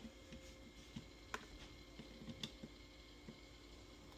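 Near silence: a quiet room with a faint steady hum and a few scattered faint clicks.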